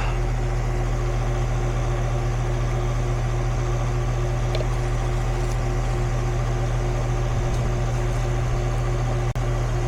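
Goodman outdoor air-conditioning condenser running steadily, a constant electrical hum from the compressor and fan motor. The sound drops out for an instant about nine seconds in.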